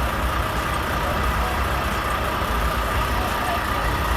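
Truck engine idling steadily, a low, even rumble.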